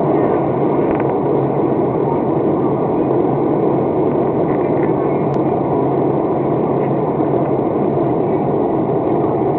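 Steady cabin noise of an airliner in flight: the constant rush of engines and airflow heard from inside, with a low hum under it.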